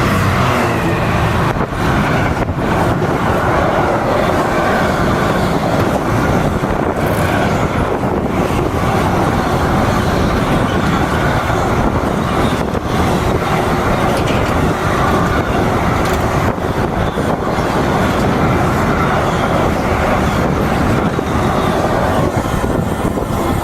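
Train running through on the main line: a continuous, loud noise of wheels on rail that holds steady throughout.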